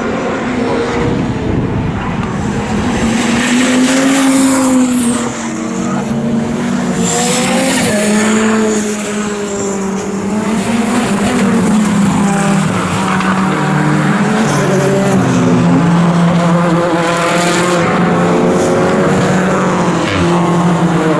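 Several racing cars' engines running hard, their pitch rising and falling with revs and gear changes as they pass one after another on the circuit.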